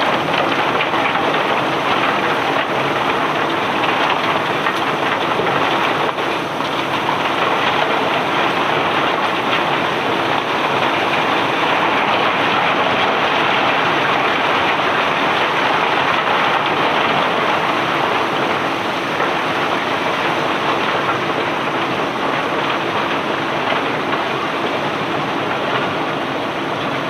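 Continuous rattling rush of cobblestones pouring and sliding off a barge, like heavy rain, over a faint steady machine hum.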